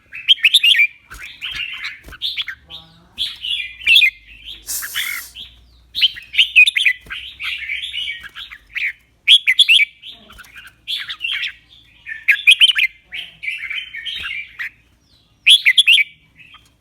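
Red-whiskered bulbul singing: short, bright warbled phrases in quick succession, with a louder phrase about every three seconds. A brief hiss about five seconds in.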